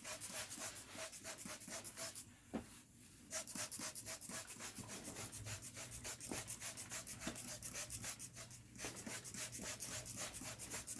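Rapid, scratchy repeated strokes on the hair of a human-hair frontal wig as it is being wetted and worked, pausing briefly twice.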